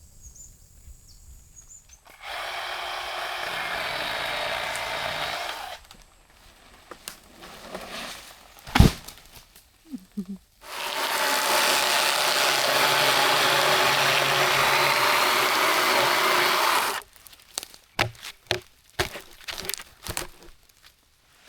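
A small motorized tool running in two steady bursts, the first about four seconds long and the second about six, with a sharp knock between them and a scatter of knocks and taps near the end.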